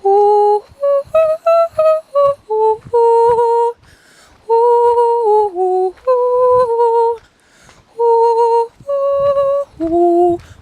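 A woman singing a wordless melody in a string of short held notes with brief breaks between them.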